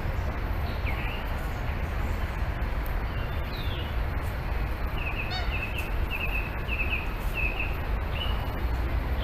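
Birds calling over a steady low rumble: a few sweeping notes, then a run of short repeated chirps about five seconds in, and a held whistled note near the end.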